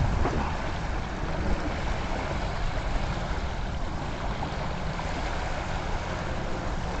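Steady wind rushing and buffeting over the microphone, an unbroken rushing noise with a fluttering low rumble.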